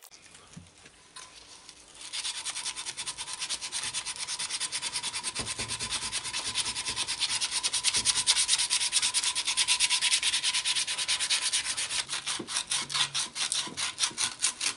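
Sandpaper sanding a wooden root goblet: fast, even rasping strokes, about four or five a second, starting about two seconds in, over a faint steady hum.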